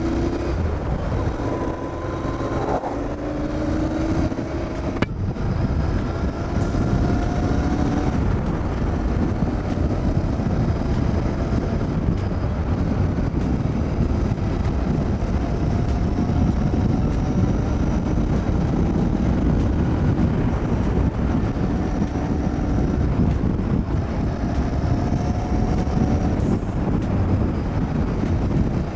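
Cafe racer motorcycle being ridden on the road, its engine pitch rising several times as it pulls through the gears, over a steady rushing noise.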